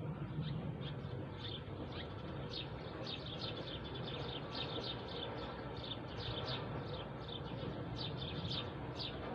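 Many small birds chirping: dense short, quickly falling chirps, several a second, over a steady low rumble.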